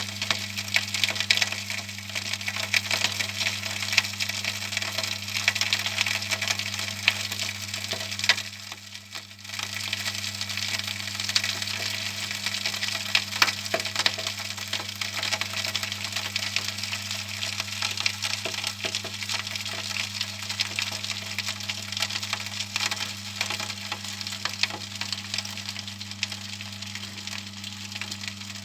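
Homemade eco-pea coal furnace feeder at work: a steady low motor hum under dense, irregular crackling and crunching, with a brief lull about nine seconds in.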